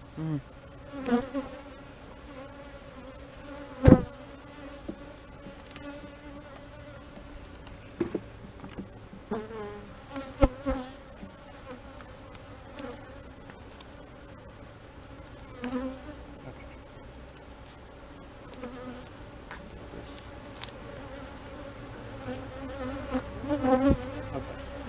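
Honey bees buzzing in a steady hum around an open hive, with a few sharp knocks, the loudest about four seconds in.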